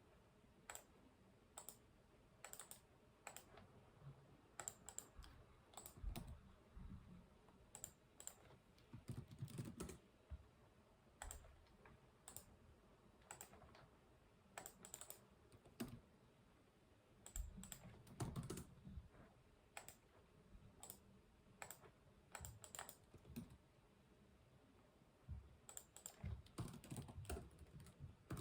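Typing on a computer keyboard: keystrokes in irregular runs, with brief pauses and a stretch of about two seconds without keys roughly three-quarters of the way through.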